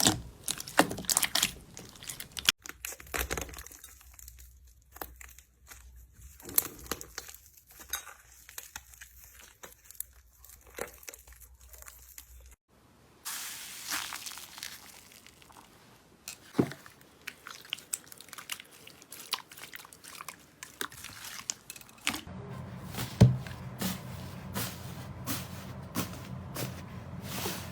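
Slime being pressed and poked by hand: a dense run of crisp crackles and clicks with soft squishes, in a few short takes with abrupt changes between them.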